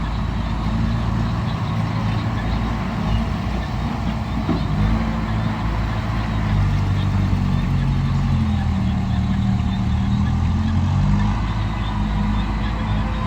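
Heavy diesel engine running steadily, its low note shifting a little up and down.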